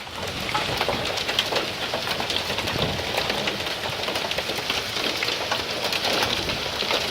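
Hail and rain falling steadily, a dense hiss peppered with many small sharp ticks of hailstones striking hard surfaces.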